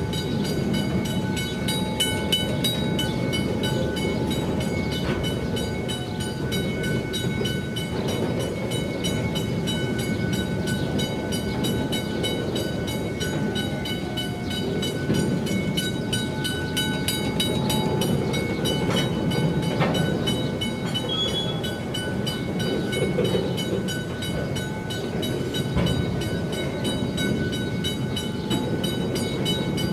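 Grain hopper wagons rolling past over the crossing: a steady rumble of wheels on rail with the odd knock. Over it the level-crossing's McKenzie & Holland teardrop bell keeps ringing in quick even strokes.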